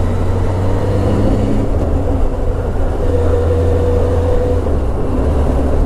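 Motorcycle engine running and air rushing past while the bike rides along at road speed, picked up by a camera mounted on the bike: a steady low drone with a faint held tone over it.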